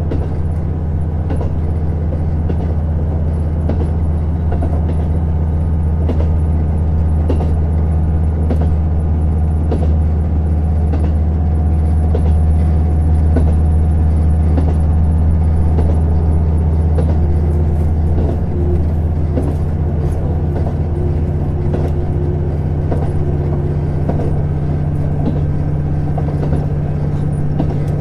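A KiHa 150 diesel railcar running along the line: a steady low diesel-engine drone with the rumble of wheels on rail and scattered light clicks. The drone shifts slightly about two-thirds of the way through.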